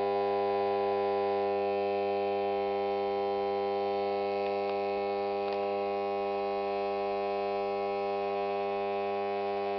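Mains transformer feeding a home-made HHO cell's bridge rectifier, humming loudly and steadily with a buzzy, overtone-rich electrical hum. A couple of faint ticks come through about halfway.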